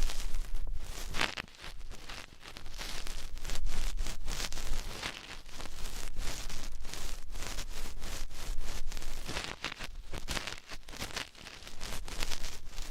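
Ear-cleaning tools scratching and rubbing close against the microphone, a dense crackly scraping that swells and fades every second or so with many small clicks.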